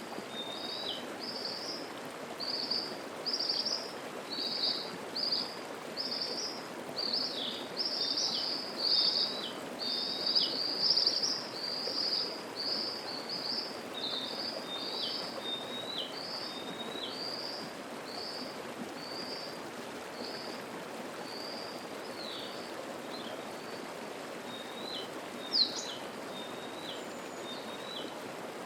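Mountain stream flowing steadily under a songbird's long run of short, high, repeated notes, which thin out to scattered notes near the end. One sharper, louder call comes late on.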